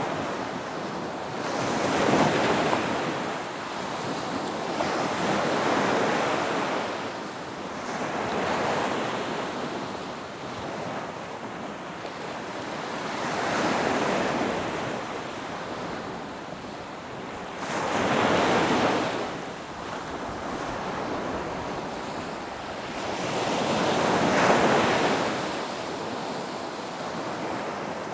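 Ocean waves breaking on a beach: six swells of surf, each rising into a rushing wash and fading, every four to six seconds.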